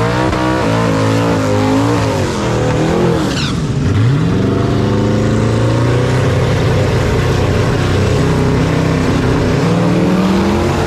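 Twin-turbo Ford Coyote V8 engine revving: the pitch climbs, drops sharply a little under four seconds in, then climbs again and holds high and steady.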